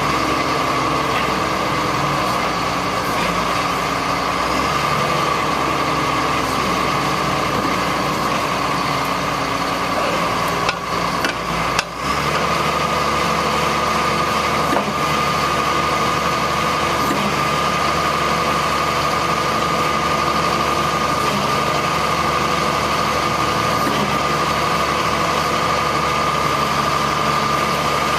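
1999 GMC digger truck's engine running steadily, with a steady high whine over it. There are a couple of brief dropouts about eleven to twelve seconds in, after which the low rumble changes and then runs on steadily.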